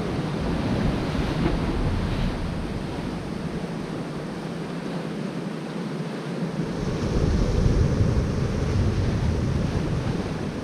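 Ocean surf washing on a rocky shore, with wind buffeting the microphone. The rumble eases for a couple of seconds mid-way, then comes back louder about seven seconds in.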